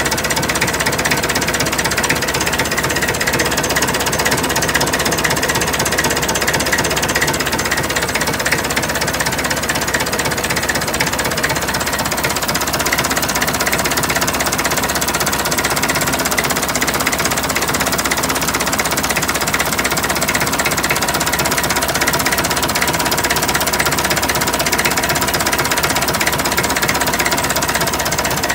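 Massey Ferguson 65 tractor's four-cylinder engine running steadily at close range, an even, rapid clatter of firing strokes with no change in speed.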